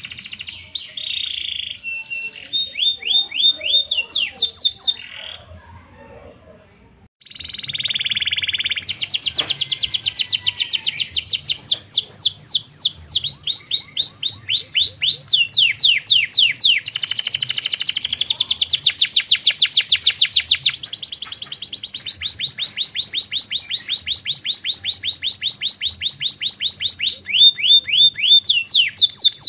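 Canary singing a long, loud song of rapid high trills and fast repeated sweeping notes. It breaks off for about two seconds early on, then sings on without a pause in long rolling trills.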